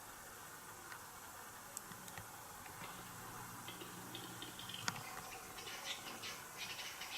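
Western capercaillie displaying: faint dry clicks that come faster, then a single sharp pop about five seconds in, followed by a couple of seconds of high scraping, hissing notes (the whetting phase of the song). A low steady hum sits underneath for a couple of seconds before the pop.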